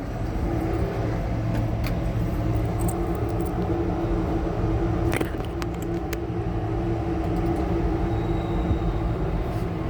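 A motor vehicle's engine running steadily, an even low hum with a few faint clicks.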